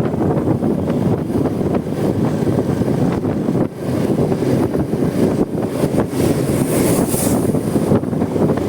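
Riding noise from a moving motorcycle: wind buffeting the phone's microphone over the running of the Honda Supra X 125's engine and the road. The rush is steady and heavy, dipping briefly a little under four seconds in, with a short rise in hiss about seven seconds in.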